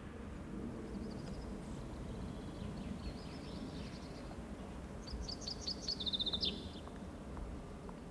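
A songbird singing over steady low outdoor background noise: a few faint chirps, then about five seconds in a louder song of quick high notes that step down in pitch and end in a rapid repeated trill.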